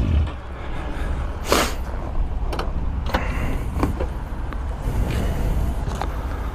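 Motorcycle engine shutting off, its note dropping away just at the start. Then a steady low rumble with a few scattered sharp clicks and knocks.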